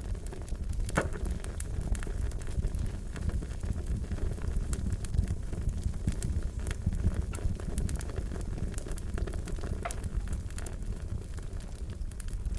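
Wood fire burning with a steady low roar and irregular sharp crackles and pops throughout, a few louder snaps standing out.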